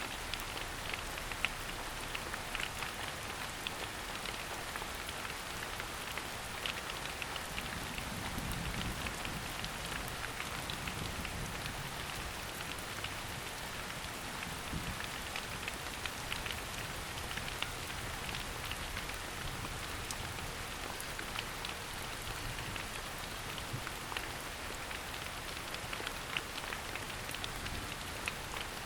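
Steady rain falling through forest foliage, with many individual drops pattering on leaves and surfaces close by.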